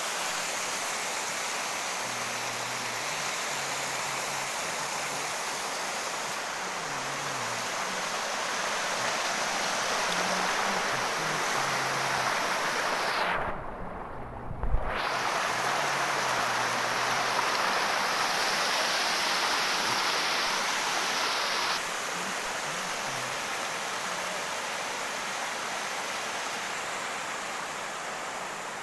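Heavy rain falling steadily as an even hiss. About halfway through it drops out for a second or two, with a low thump.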